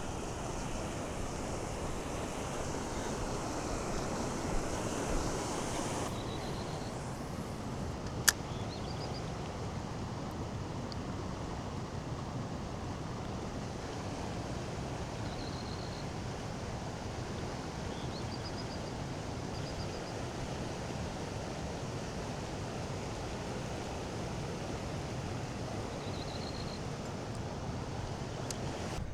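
Steady wind and water noise outdoors at a lake, a little stronger for the first few seconds. A few faint short high chirps sound now and then, and a single sharp click comes about eight seconds in.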